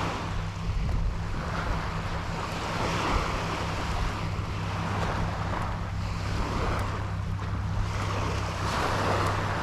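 Surf washing onto the beach, the hiss of the waves swelling and easing every few seconds, with wind rumbling on the microphone.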